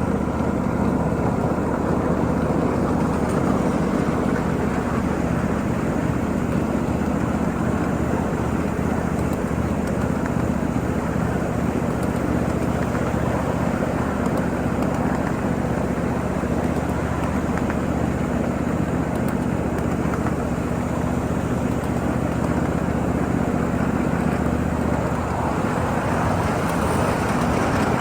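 Ride-on 7.5-inch gauge miniature freight train running steadily, with a continuous rumble of wheels on the rails and the locomotive's low, even hum.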